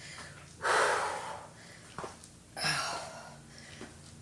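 A woman breathing hard during lunge exercises: two loud, forceful exhales about two seconds apart, with a short light knock between them, about two seconds in.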